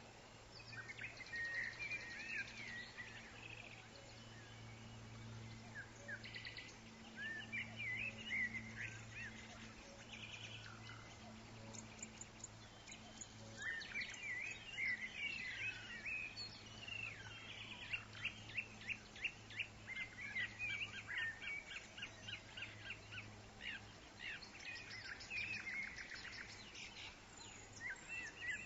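Woodland songbirds chirping and calling, several overlapping, with quick runs of rapid trilled notes through the middle. Under them runs a faint steady low hum.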